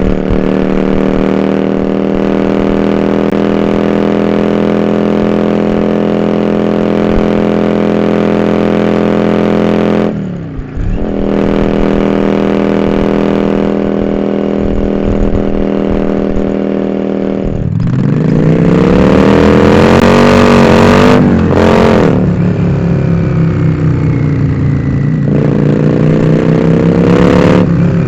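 Yamaha Drag Star 400 Classic's V-twin engine running loud through 4-inch dual Supertrap open-end mufflers. It holds a steady note at first, with a brief throttle-off dip about ten seconds in. From about eighteen seconds it revs harder, its pitch rising and falling as it accelerates.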